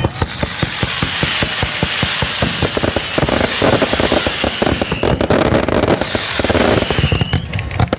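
Fireworks going off in a dense, rapid run of bangs and crackles over a steady hiss, with a couple of short whistles.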